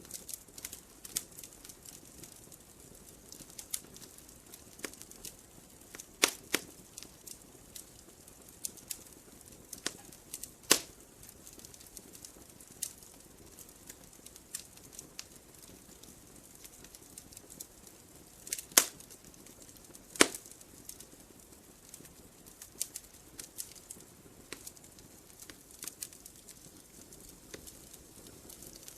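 Wood fire in a fireplace crackling, with irregular sharp pops and snaps over a faint steady hiss; a few pops stand out louder, two of them close together about two-thirds of the way through.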